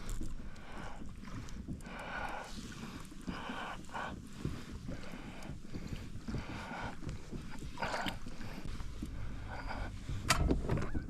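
Water sloshing and lapping against a kayak hull in uneven bursts, with wind on the microphone.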